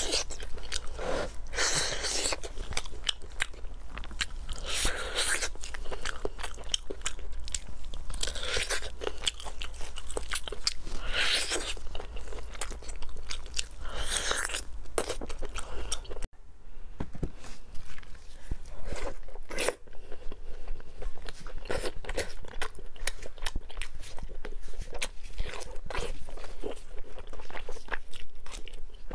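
Close-miked eating sounds: a person biting and chewing braised pork knuckle, with dense clicks from teeth and mouth. About sixteen seconds in the sound breaks off abruptly and the chewing continues on braised pork belly.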